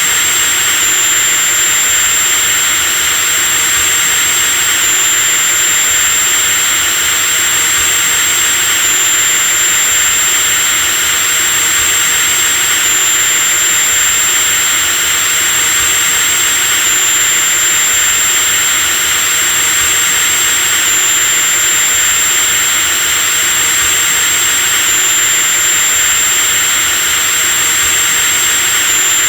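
Electric drill motor running steadily with a continuous high-pitched whine, the tone shifting slightly about every four seconds.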